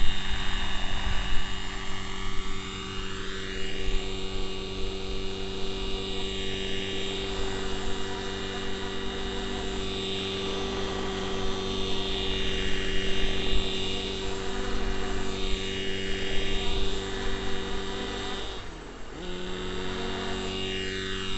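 Neo Caliber 50 RC helicopter's nitro glow engine and rotor blades running in flight: a steady high-pitched drone with a whooshing that rises and falls every few seconds as the helicopter moves. Near the end the engine note dips briefly and then comes back up.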